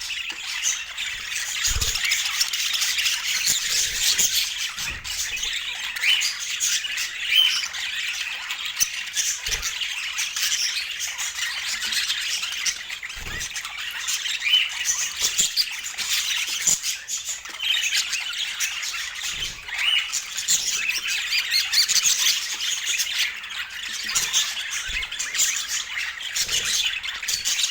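Budgerigars chattering and squawking continuously, a dense mix of warbles and short chirps, with occasional soft knocks.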